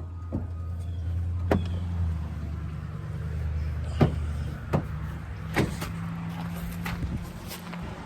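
Vehicle idling, a low steady hum, with several sharp knocks and clicks scattered through it.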